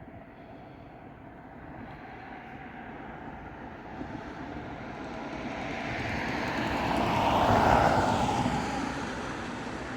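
A vehicle passing by: a rushing noise that swells slowly for several seconds, peaks about three-quarters of the way through, then fades.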